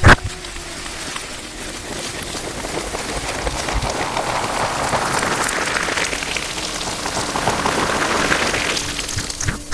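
Slime being worked close to the microphone: a dense, continuous crackling of many fine ticks that swells towards the middle and eases off near the end, after a sharp click at the very start.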